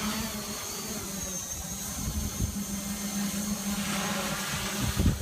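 RC Logger NovaX 350 quadcopter's motors and propellers running at a steady, even whine as the drone takes off and holds in the air. Wind buffets the microphone with a low, gusty rumble that grows stronger near the end.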